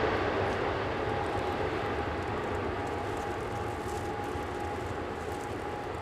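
A steady engine drone with a faint steady hum in it, slowly fading away.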